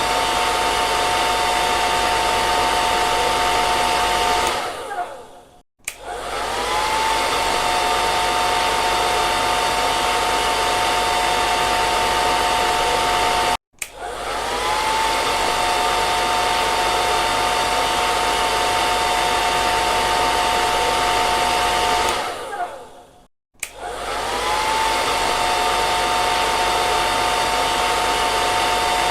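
Electric hair dryer blowing steadily, a rushing air noise with a two-note motor whine. Twice it winds down to silence with a falling whine and then starts up again, the whine rising as the motor gets back up to speed; once, near the middle, it cuts out for an instant and restarts.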